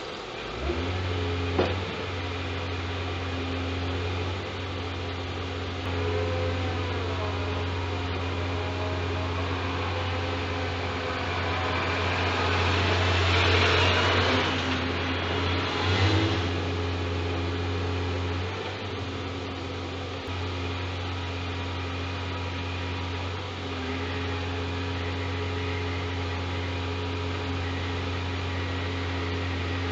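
Scania G410 truck's diesel engine running with a steady low hum that steps up about a second in. A rushing noise swells around the middle and fades again after a couple of seconds.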